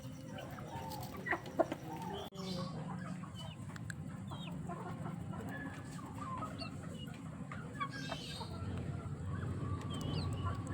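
Backyard chickens clucking, with many short high chirps and calls scattered throughout over a steady low background hum.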